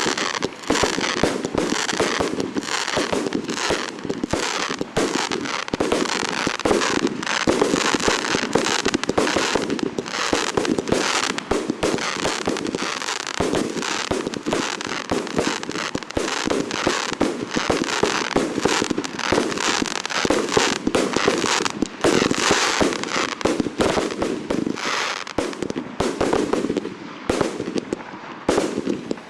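Fireworks display in full barrage: a dense, continuous run of firework bangs and crackling bursts, several a second, with a brief lull near the end.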